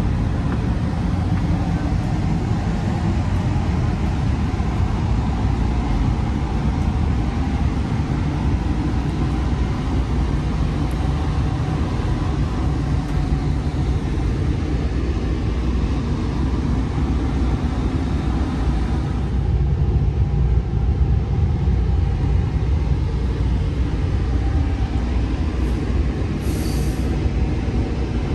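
Trinity Railway Express commuter train heard from aboard: a steady, even low rumble of the train running on the rails. A brief faint high squeak comes near the end.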